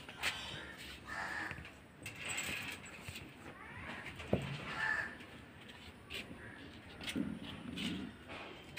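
Harsh, crow-like caws, several in a row a second or two apart, with a single sharp knock about four seconds in.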